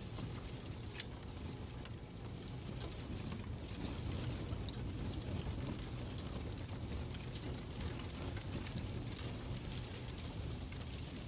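Fireplace crackling: a steady rush of flames with a low rumble and scattered small pops.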